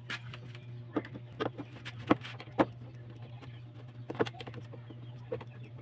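A series of sharp, irregular clicks and knocks, about six of them, over a steady low hum.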